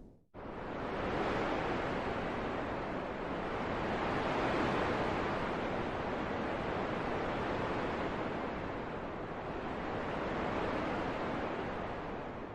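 Wind blowing: a steady rushing noise that swells and eases slowly, starting suddenly after a brief gap and fading near the end.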